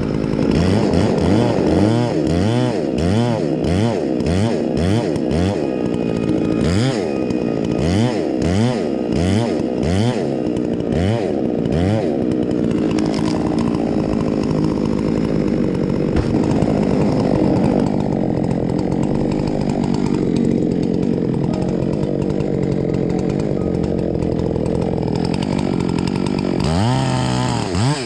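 Chainsaw cutting into a large fir. For about the first twelve seconds the engine pitch rises and falls about twice a second as the saw works through the wood, then it runs more steadily at speed, with one more dip and rise near the end.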